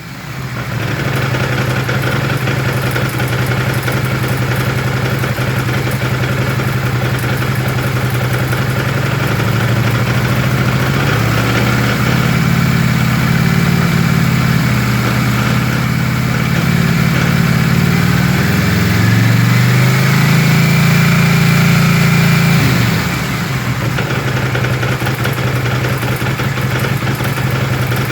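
Kawasaki 800 motorcycle engine idling. The revs rise and are held higher for about twelve seconds, then drop back to idle. It carries a strange noise that the owner puts down to a clutch cylinder needing replacement.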